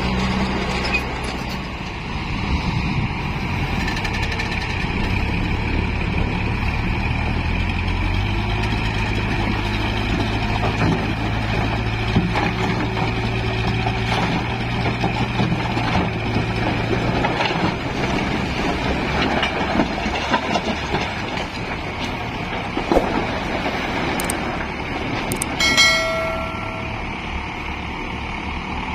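Heavy diesel dump truck engine running steadily. A short pitched tone, about a second long, sounds near the end.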